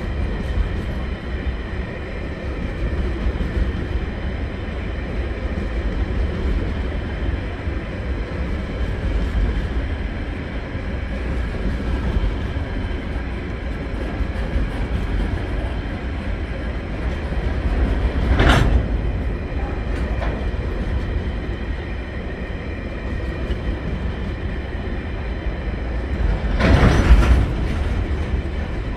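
Container wagons of a long TasRail freight train rolling past on steel wheels: a steady rumble and clatter with a faint high ringing. There is a short, louder scraping noise about two-thirds of the way through and a longer one near the end.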